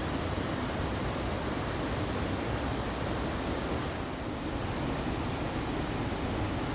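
Steady rush of flowing water in a mountain stream, an even, unbroken roar weighted toward the low end.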